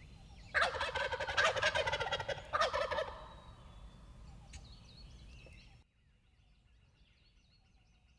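A wild turkey gobbler gobbles once, a loud rapid rattling call of about two and a half seconds that starts about half a second in.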